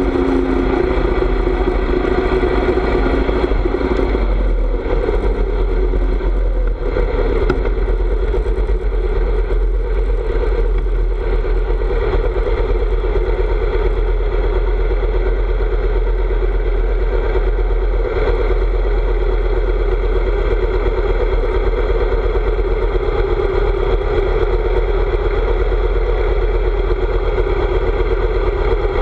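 Harley-Davidson V-twin motorcycle engine running under way, its pitch climbing about five seconds in and then holding steady at cruise, over a constant low rumble.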